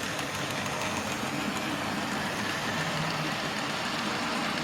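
Model railway train running along the layout's track, a steady hum and rumble from its motor and wheels on the rails.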